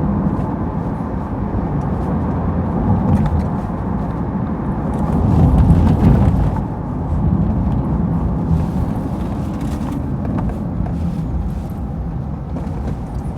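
Road and engine noise inside a moving car's cabin, a steady low rumble that swells a little about five seconds in.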